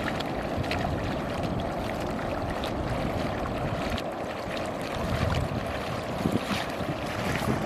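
Estuary water sloshing and splashing, with wind noise on the microphone.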